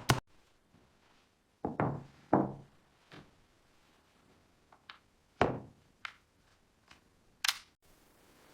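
Irregular knocks and taps, spaced a second or more apart and uneven in strength, with the loudest two about two and a half and five and a half seconds in. A quick run of regular hammer-like blows stops right at the start. A faint steady hiss comes in near the end.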